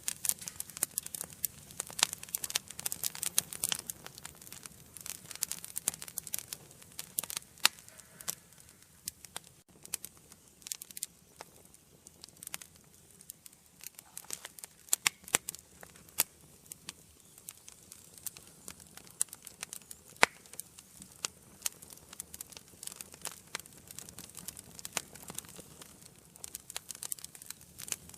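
Wood fire burning in an indoor fireplace, crackling and popping at irregular intervals over a faint steady hiss.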